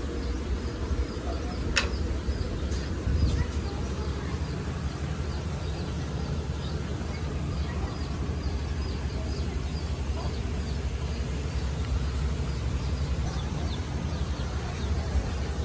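Small birds chirping over and over, short high chirps through the whole stretch, over a steady low rumble, with one sharp click about two seconds in.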